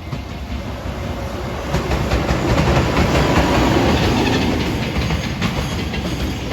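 Freight train running past on the line, its wheels clicking over the rail joints. The noise builds to its loudest about halfway through, then eases a little.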